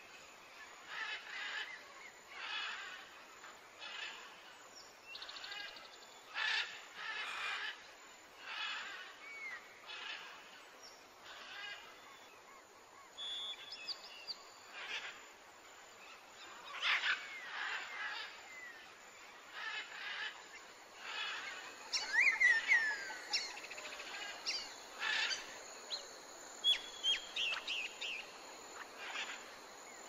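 Birds calling outdoors: short calls repeat about once a second, and a flurry of quick chirps and whistles comes about two-thirds of the way through.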